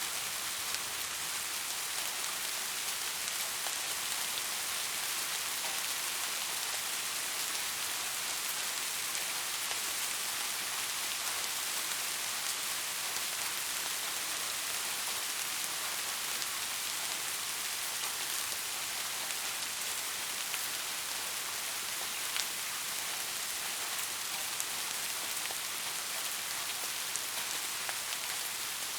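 Steady rain falling: an even, unbroken hiss with scattered faint drop hits.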